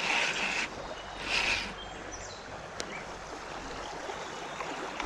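Steady rush of creek water, with two short hissing bursts in the first two seconds and a single sharp click near the middle.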